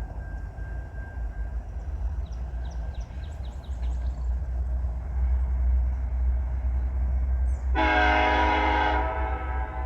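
Diesel freight locomotive rumbling steadily, with its air horn sounding one short blast of about a second near the end.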